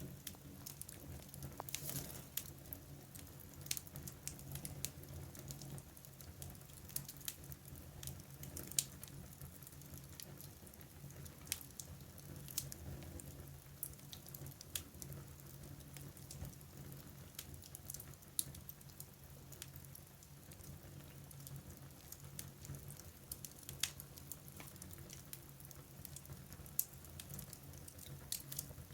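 Wood fire in a fireplace crackling, with irregular sharp pops over a faint, steady low hum.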